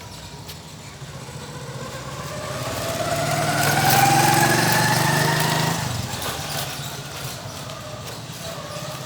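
Motorcycle engine approaching and passing close by, its pitch rising as it accelerates. It is loudest about four to five seconds in, then drops away quickly.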